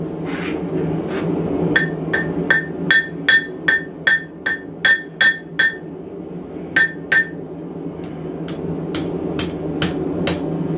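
Hand hammer striking hot steel on an anvil, drawing out a prong of a forged mason jar handle: a quick run of about a dozen ringing blows, a pause, two more, then five near the end. A steady low drone runs underneath.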